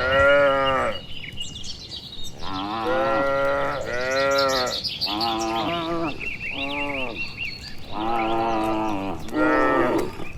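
Herd of cattle mooing, one call after another from several animals, about seven calls of roughly a second each. Birds chirp between the calls.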